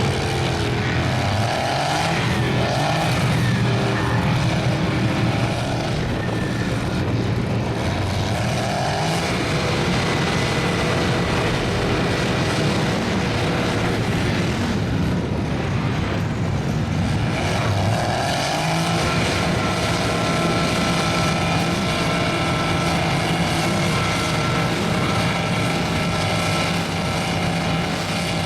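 Big mud-bogging truck engines running hard and steadily, with a dense noisy haze from the mud and spinning tyres; the engine pitch shifts partway through.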